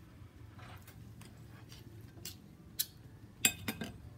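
A metal fork cutting through a pancake and tapping against a ceramic plate: a series of light clinks and clicks, the loudest few about three and a half seconds in.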